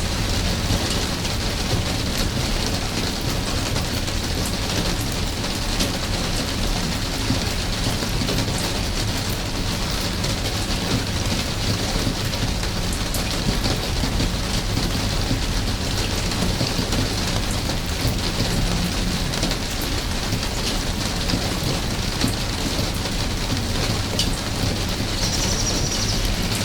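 Steady rain falling, with many small drips ticking through it and a low, even rumble underneath.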